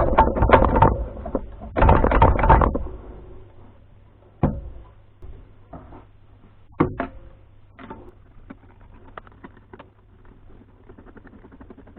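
Metal engine parts and tools being handled: a quick run of clinks and knocks over the first three seconds, then single knocks about four and seven seconds in and light scattered ticks, over a low steady hum.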